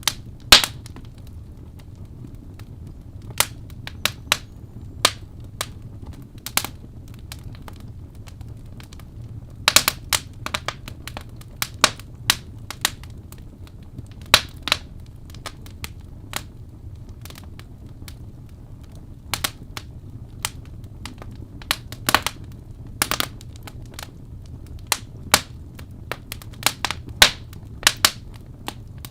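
Wood fire crackling in a fireplace: sharp, irregular pops and snaps, some in quick clusters, over a steady low rumble of the flames.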